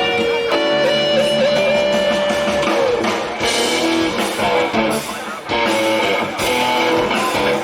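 A jazz band playing, with a long held melody note that wavers slightly in the first few seconds, over guitar and accompaniment.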